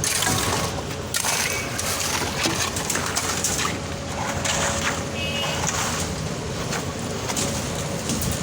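ABJZ40C diesel concrete mixer pump running steadily while pumping concrete, with a few sharp knocks over the running noise.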